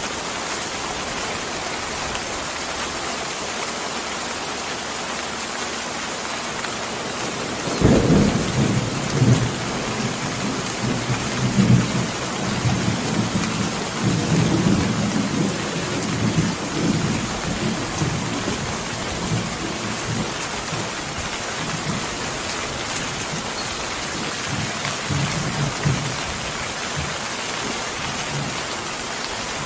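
Steady heavy rain, with a roll of thunder breaking in about eight seconds in and rumbling on in waves for most of the rest before dying away near the end.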